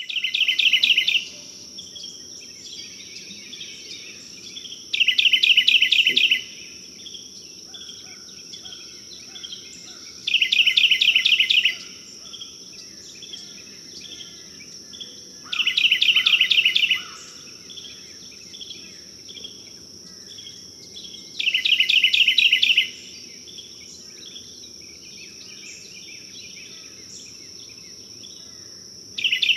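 Bird song: a loud, rapid trill about a second and a half long, repeated every five to six seconds, over a steady high insect drone and softer chirps of other birds.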